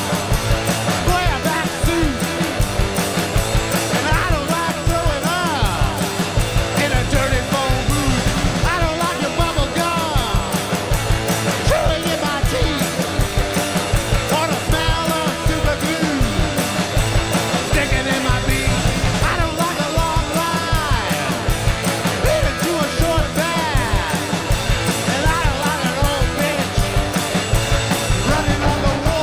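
Rock band playing a fast punk-rock song live, with a steady driving beat throughout.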